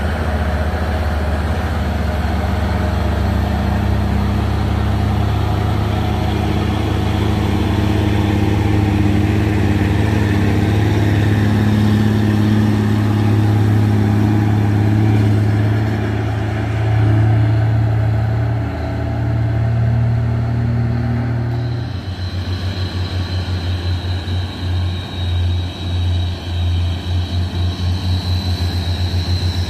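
Heavy truck engine running, a steady low drone. About 22 seconds in it changes abruptly to a pulsing low throb with a thin high whine over it.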